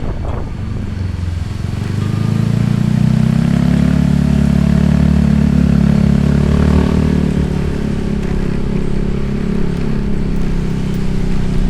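Motorcycle engine running steadily as the bike is ridden. It grows louder about two seconds in, then holds.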